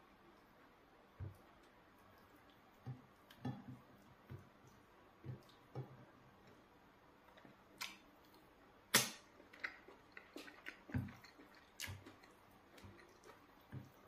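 Eating sounds of a man eating eba with spinach soup by hand: irregular wet mouth clicks and lip smacks as he chews, the loudest smack about nine seconds in, just after he puts a handful in his mouth.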